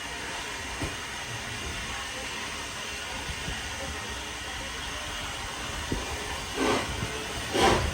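Steam locomotive at the platform with a steady hiss of steam, and two louder bursts near the end.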